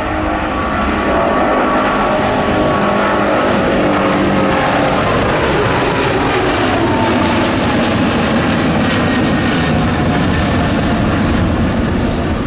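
Boeing 777-200's two GE90 turbofan engines at take-off thrust: a loud, steady jet rush with whining tones that slowly slide down in pitch as the airliner passes.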